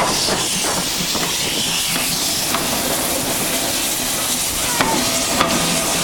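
Steam hissing from 2-8-0 steam locomotive 3803, a steady loud hiss with scattered light clicks.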